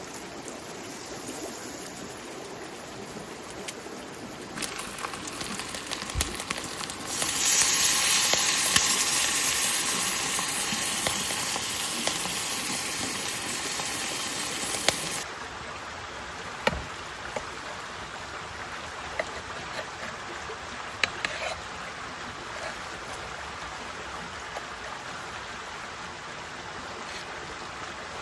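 Steady rain falling. In the middle, a louder hiss builds, holds for about eight seconds and cuts off suddenly.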